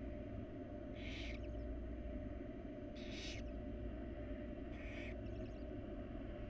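Barn owl nestlings' hissing begging calls: three short raspy hisses about two seconds apart, over a steady low hum.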